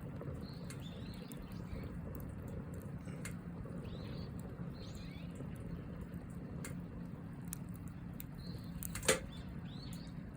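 Campfire burning, its wood giving scattered sharp crackles over a steady low background, with one loud pop about nine seconds in.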